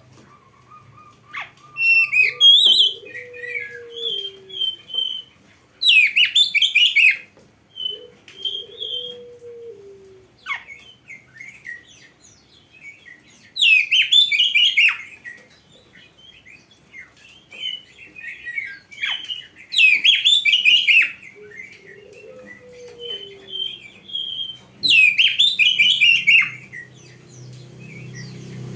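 Oriental magpie-robin singing: loud bursts of rapid, varied song phrases every five to seven seconds, with softer whistled notes in between.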